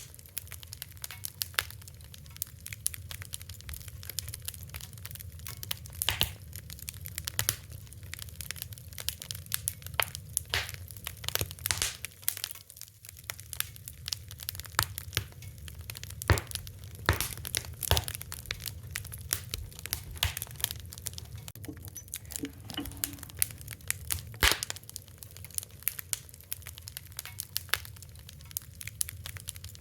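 Wood fire crackling: irregular sharp pops and snaps, a few louder cracks, over a steady low rumble of the flames.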